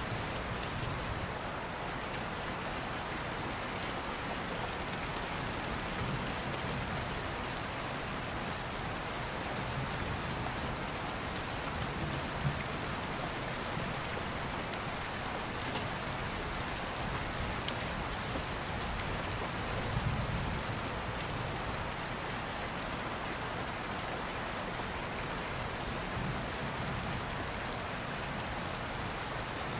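Steady rain pattering, with distant thunder rumbling low, most clearly about two-thirds of the way through, and a few sharp crackles from a wood fire.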